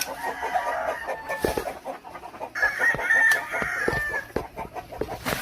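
A rooster crowing twice, the second crow longer and louder, with chickens clucking around it.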